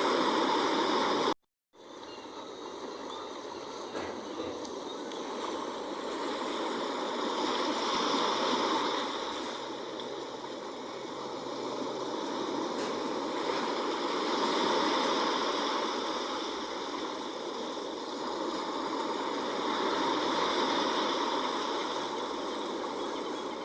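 Sea waves washing ashore, the surf swelling and ebbing every six seconds or so. The sound cuts out briefly about a second and a half in, then builds back.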